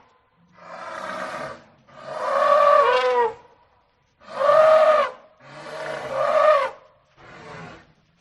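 A series of five loud animal calls, each lasting about a second, with short pauses between them.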